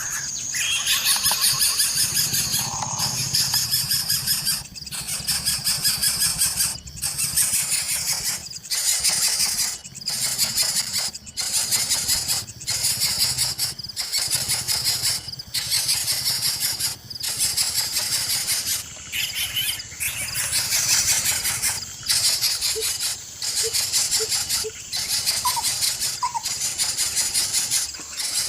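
Coucal chicks begging: harsh, hissing squeals repeated in bursts about a second long with short breaks between. A few faint chirps come in near the end.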